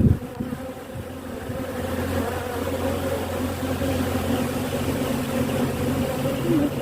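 Honeybees buzzing around an open hive, a steady hum, with a low steady drone building under it about a second and a half in.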